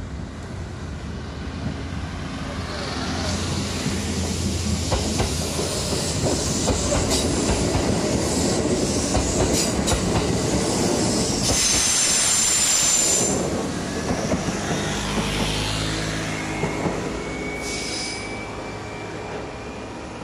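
Kintetsu 8400 series electric train passing close by, its wheels clicking over the rail joints and growing louder. About twelve seconds in there is a short burst of high wheel squeal. As the train draws away toward the station, a thin steady squeal sets in near the end.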